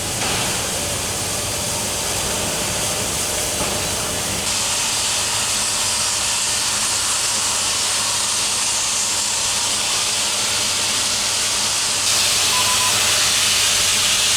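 Steam locomotive venting steam: a steady, loud hiss that gets louder in two steps, about a third of the way in and near the end.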